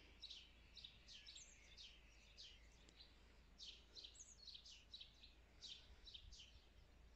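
Faint bird chirping: short, falling high notes repeated irregularly, two or three a second, over a low steady background rumble.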